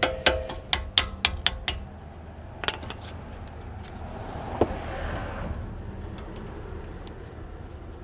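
Metal tools tapping and clinking against a brake caliper and pads: a quick run of about seven sharp taps at roughly four a second, then two single knocks. A rushing sound swells and fades midway.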